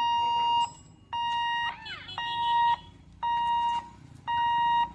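Electronic warning beeper at a railway level crossing, sounding a steady, high beep about once a second, each beep a little over half a second long: the signal that the gate is closing for an approaching train.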